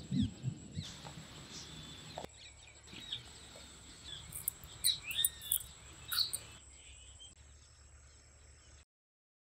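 Small birds chirping in short, scattered calls over a faint background hiss, with a few soft knocks right at the start; the sound cuts out abruptly near the end.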